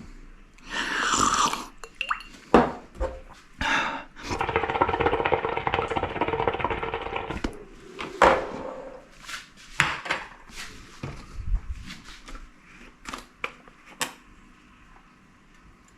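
Kitchen work sounds: scattered knocks and clinks of utensils and dishes, with a steady mechanical buzz lasting about three seconds in the middle.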